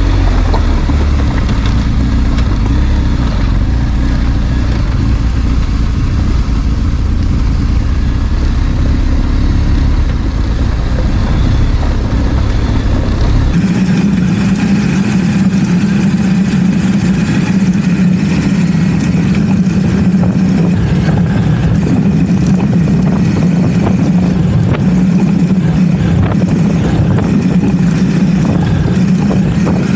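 BMW R 1250 GS boxer-twin engine running steadily while riding, under a deep low rumble. About halfway through, the sound changes suddenly to a steady, higher drone with more hiss on top.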